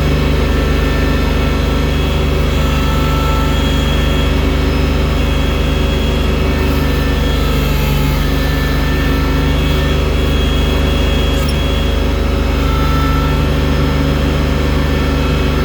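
Engine of a loader machine clearing deep snow with its bucket, running steadily at a constant speed.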